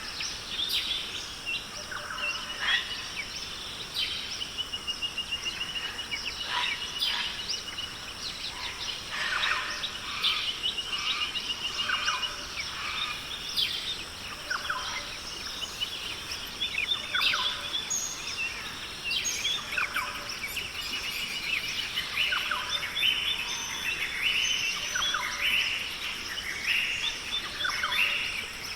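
A chorus of many birds calling and singing: short chirps, fast trills and rising and falling notes overlapping, over a steady high-pitched drone.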